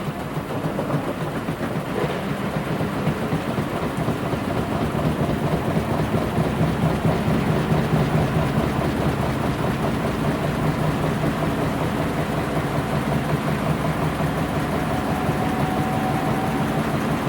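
Washing machine running mid-program: a steady rumble and slosh of water and laundry tumbling in the drum, growing louder over the first several seconds and then holding steady.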